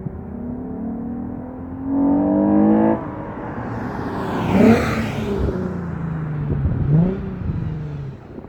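Lexus IS350's 3.5-litre V6 through an ARK Performance catback exhaust, revving: the pitch climbs steadily for about three seconds and then cuts off abruptly, followed by two quick sharp revs, one about halfway through and one near the end.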